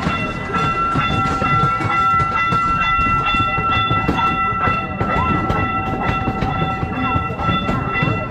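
C. P. Huntington replica park train rolling along its narrow-gauge track, heard from an open passenger car: low rumble with a regular clicking of wheels over rail joints, under a steady high-pitched whine.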